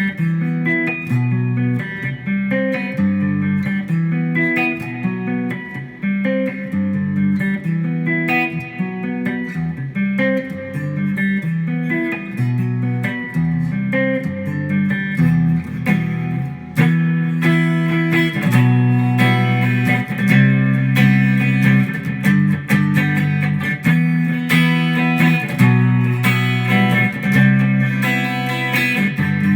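Ibanez guitar played solo: picked single notes and chords. About halfway through, the playing gets fuller and louder with denser strummed chords.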